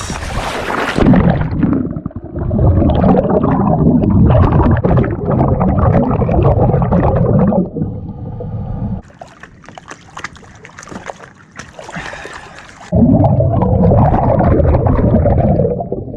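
Water splashing and gurgling close to the microphone in long loud stretches, with a quieter spell in the middle broken by sharp clicks.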